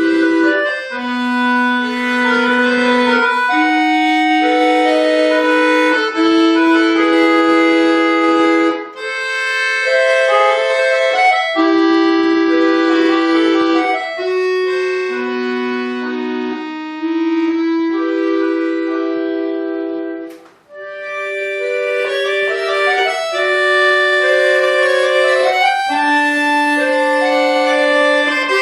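Bayan (Russian chromatic button accordion) playing a melody in held notes over sustained lower notes, with a short break about two-thirds of the way through before the playing resumes.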